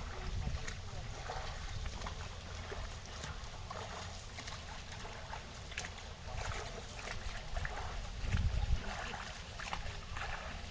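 Small waves lapping and trickling against the shore rocks of a pond, with a low wind rumble on the microphone.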